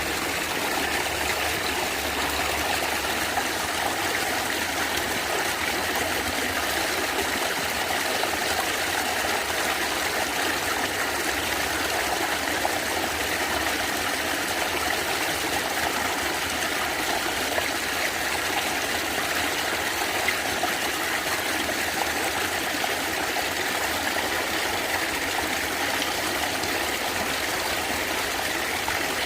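Stream water gurgling and trickling steadily over rocks, with no pauses or changes.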